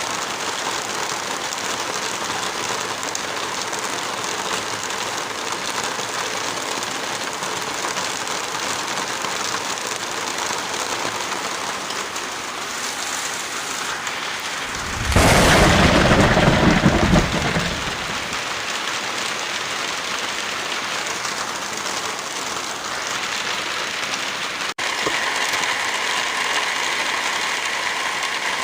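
Steady heavy rainfall. About halfway through, a loud low rumble lasting about three seconds rises above it and fades. Near the end the rain cuts out for an instant and comes back with a slightly different, faintly ringing character.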